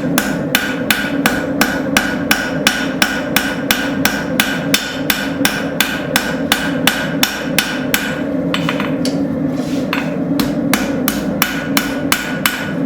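Rounding hammer striking a hot railroad spike, hand-forging a blade bevel down to about 1/8 inch. The blows fall at about three a second, break off briefly about two-thirds of the way through, then resume. A steady low noise runs underneath.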